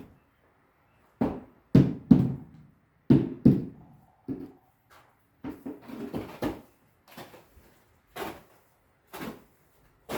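A series of irregular knocks and thuds, about a dozen, with a short tail after each.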